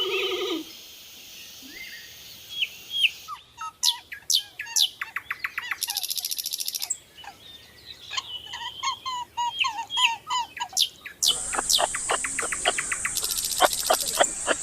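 Small birds chirping, with fast trills of quick repeated high notes. About eleven seconds in the background changes abruptly to a steady high hiss, and sharp, rapid chirps continue over it.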